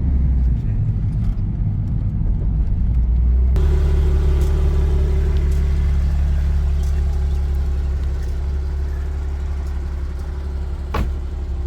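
Car engine and road noise heard from inside a moving all-wheel-drive sports car: a steady low drone that changes abruptly about three and a half seconds in, then carries a steady hum, with a single sharp click about eleven seconds in.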